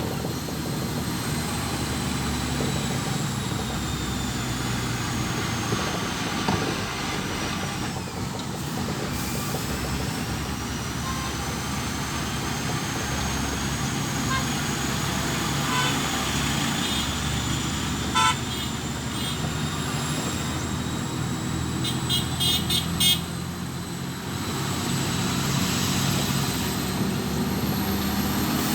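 Road traffic with a vehicle engine running steadily. A short horn toot sounds past the middle, then a quick run of toots a few seconds later.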